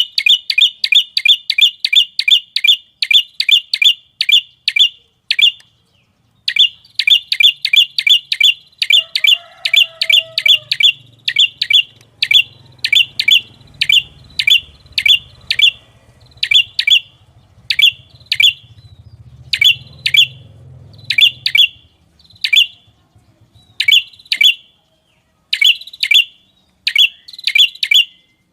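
A small songbird calling a sharp, high chip note over and over, about four a second at first. After a short break about six seconds in, the notes come more spaced out, often in pairs.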